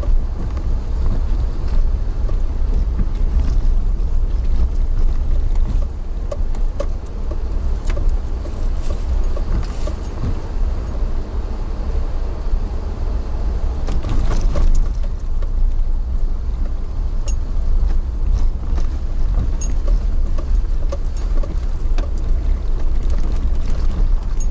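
Moving vehicle heard from inside the cabin: a steady low rumble with frequent light rattles and clicks.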